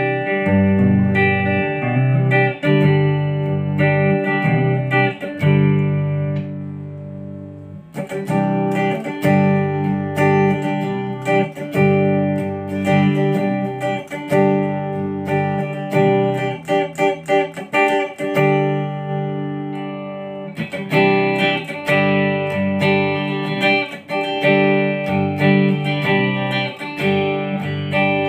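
Ibanez GIO electric guitar with HSH pickups being played: chords and picked notes, with one chord left ringing and dying away about six to eight seconds in before the picking starts again.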